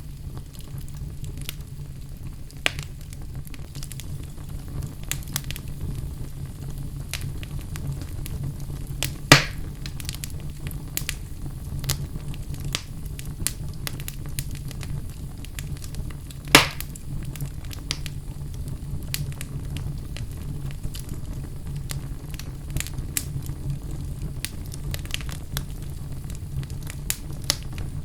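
Fire burning in a fireplace: a steady low rumble with frequent small crackles, and two loud pops, about a third of the way in and again just past halfway.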